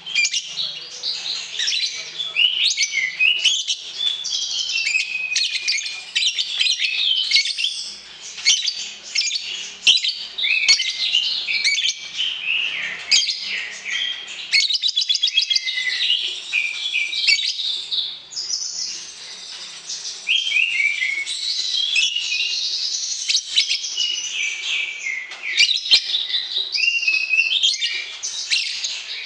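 Several songbirds singing at once in a dense, continuous chorus of rapid high chirps, trills and sliding whistles.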